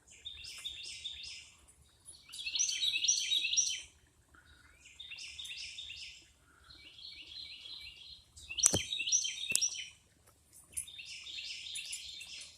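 A songbird singing about six short phrases of rapid, high chirping notes, each a second or two long, with brief pauses between them. About two-thirds of the way through, a sharp click, the loudest moment, breaks in, and a fainter one follows.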